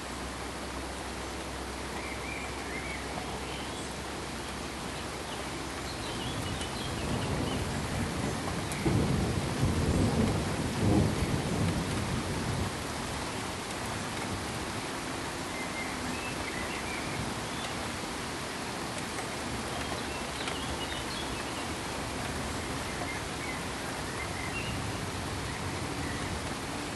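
Steady, even pink-noise hiss. A low rumble swells in about a quarter of the way through, is loudest near the middle and fades away a few seconds later. A few faint high chirps are scattered over the hiss.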